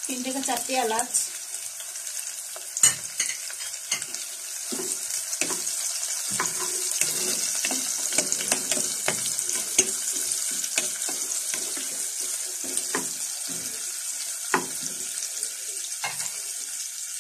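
Sliced onions and whole spices sizzling in hot oil in a pot, a steady hiss, with a wooden spoon scraping and knocking against the pot at irregular moments as they are stirred.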